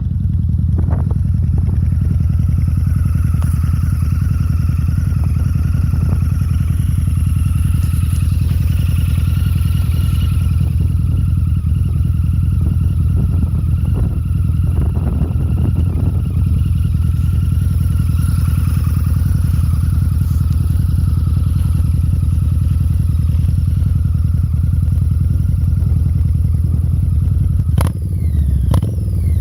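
Harley-Davidson V-Rod Muscle's liquid-cooled V-twin, breathing through Bassani slip-on mufflers, running at a steady engine speed. Near the end the sound briefly drops and then climbs in pitch as the engine revs up.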